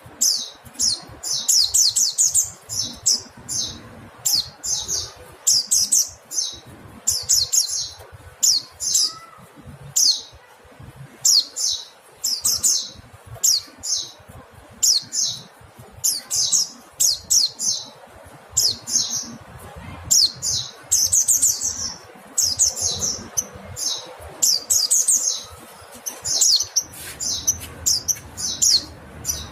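Mountain white-eye (pleci montanus) calling: short bursts of quick, high-pitched chattering notes, repeated about once or twice a second without a break.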